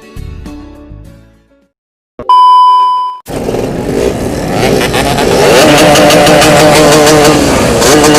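Music fades out over the first second and a half. After a short silence comes a loud steady beep about a second long. Then a Yamaha RX two-stroke motorcycle engine runs loudly, its pitch rising and falling.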